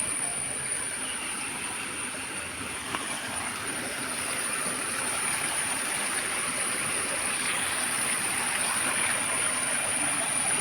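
Steady rush of flowing stream water, with a thin high-pitched whine held over it.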